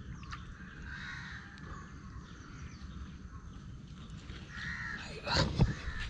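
A bird calling a few times over a steady low background rumble, then a few sharp handling knocks and rustles from about five seconds in.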